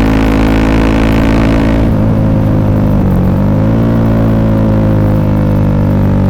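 Honda CRF300L's single-cylinder four-stroke engine running through an FMF Q4-style aftermarket exhaust under way. The throttle eases off about two seconds in, and the revs dip and pick back up around three seconds in before holding steady.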